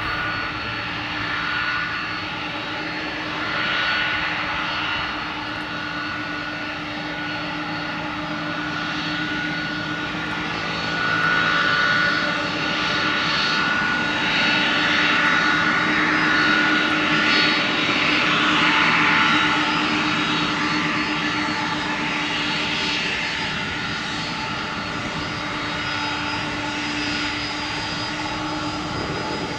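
Airbus A300B4-622R freighter's twin turbofan engines running: a steady rushing jet noise with a constant whine. It swells louder through the middle and then eases off.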